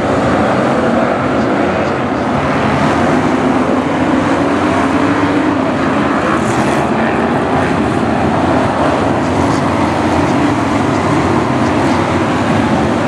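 A pack of BriSCA F1 stock cars racing round the oval, their V8 engines running hard together in a loud, steady mass of engine noise.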